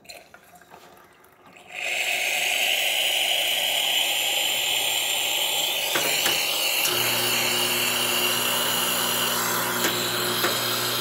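Gaggia espresso machine dispensing from its hot-water outlet: a loud steady hiss of water and steam starting about two seconds in. About five seconds later a steady low pump hum joins it.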